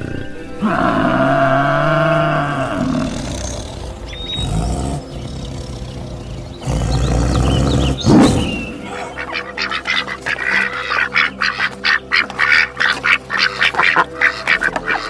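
A sequence of animal calls: a drawn-out pitched call near the start, then from about nine seconds a rapid run of duck quacks, with soft background music.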